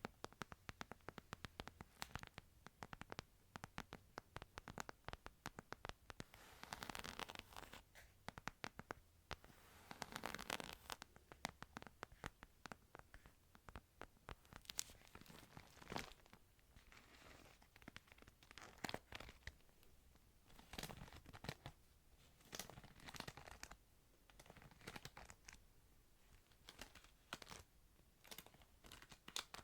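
Faint handling of a Bible: quick light taps and scratches on the book, with pages rustling and turning in two longer swells near the start.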